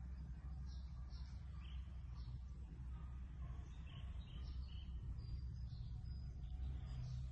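Faint, short bird chirps coming irregularly, over a steady low rumble.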